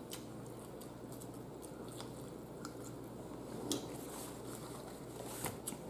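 A person chewing a mouthful of food close to the microphone, quiet and steady, with scattered small wet mouth clicks and a couple of sharper ones later on.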